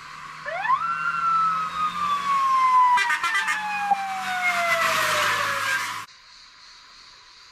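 An emergency-vehicle siren sounds once: it winds up quickly in pitch, then falls slowly over about five seconds, and cuts off suddenly about six seconds in. A few sharp clicks come near the middle.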